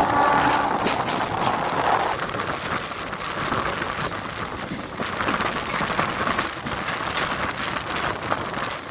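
Passenger train running on the track, heard from the coach side: a steady rumble and clatter of wheels on rails with wind on the microphone. A brief whine sounds in the first second or two.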